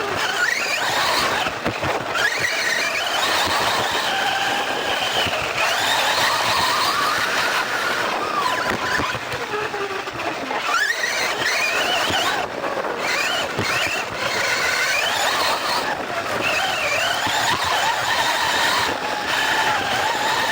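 Several radio-controlled cars racing, their motors whining and sliding up and down in pitch over and across one another as they speed up and slow down.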